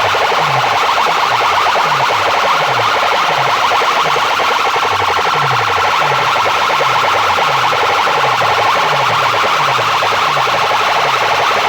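DJ sound-box competition playback blasting through massed loudspeakers: a harsh, buzzing, siren-like track over a bass that drops in pitch about twice a second.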